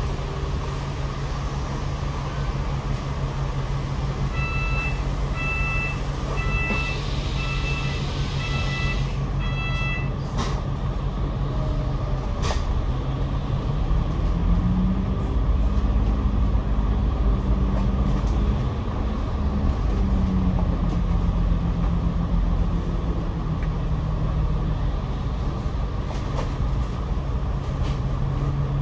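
Double-decker bus heard from the upper deck: steady engine and cabin rumble. Between about four and ten seconds in there is a run of about seven evenly spaced electronic beeps, and from about fourteen seconds in the engine note rises and holds higher for several seconds.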